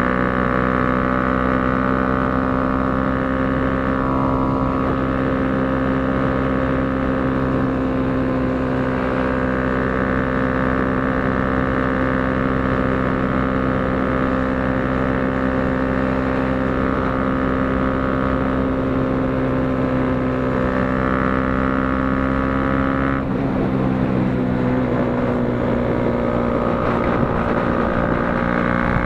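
KTM Duke 200 single-cylinder engine held at high revs at full speed, a steady high-pitched drone with wind rush over it. About two-thirds of the way in the note drops slightly as the throttle eases, then climbs again near the end.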